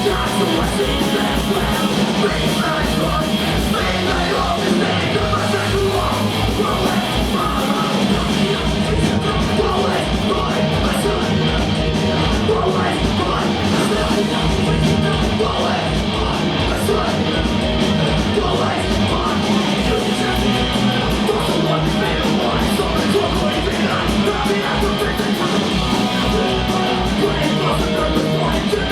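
Punk rock band playing live at full volume, with a fast, steady kick-drum pulse under the band and yelled vocals.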